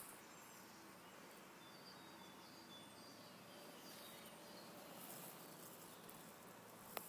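Near-silent woodland ambience with a few faint, short bird chirps, and one sharp click near the end.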